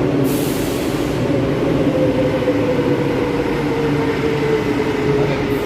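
Madrid Metro train running, its motor whine falling slowly in pitch over a steady rumble. A short hiss comes about a quarter second in.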